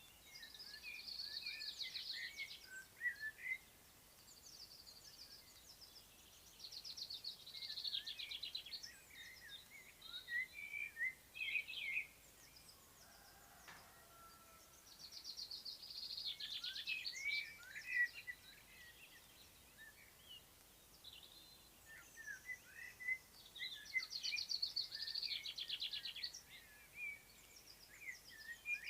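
Songbirds singing in spring countryside: one bird repeats a rapid, buzzy trilled phrase about every eight seconds, four times, with other birds' short high chirps in between.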